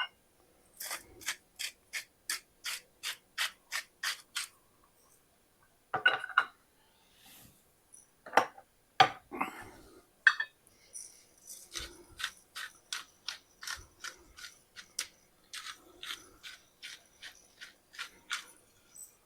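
Salt and pepper grinders twisted over the pan in short rasping strokes, about three a second, in two long runs, with a few louder single scrapes between them.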